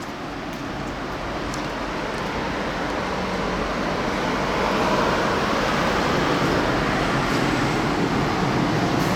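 Strong wind blowing in gusts, swelling over the first half and then holding steady.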